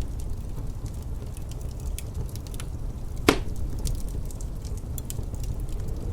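Wood fire crackling in a fireplace: scattered sharp crackles over a steady low rumble, with one loud pop a little past halfway.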